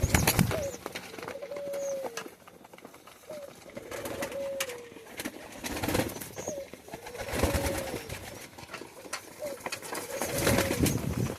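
Pigeons cooing, with drawn-out coos repeating every second or two, mixed with scattered sharp clicks and scuffling.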